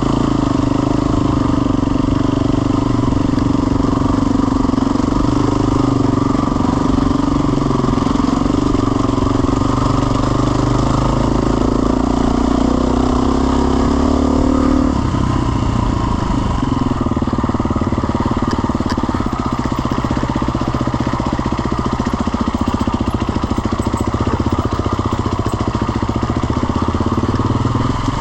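Off-road motorcycle engine running steadily under throttle, its note changing about halfway through.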